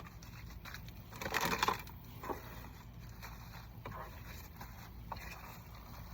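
Small items being handled and put away in a car's storage compartment: a short loud rustle about a second and a half in, followed by a few light clicks and knocks.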